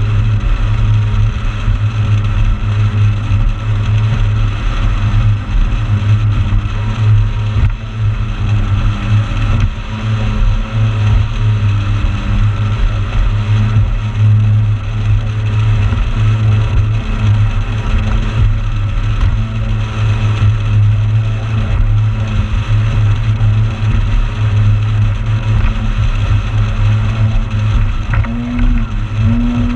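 Motorboat engine running steadily under way: a constant low drone over a rushing hiss.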